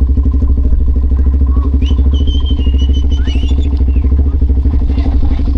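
Suzuki LTZ400 ATV's single-cylinder four-stroke engine running steadily with a fast, even firing pulse. A thin high whistling tone comes in about two seconds in and fades out under two seconds later.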